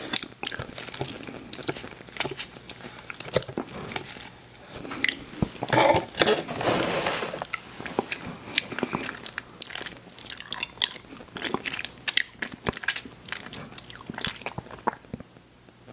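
Close-miked chewing of crunchy cookies: crisp crunches and wet mouth sounds, with a louder, denser stretch of chewing about six seconds in, fading near the end.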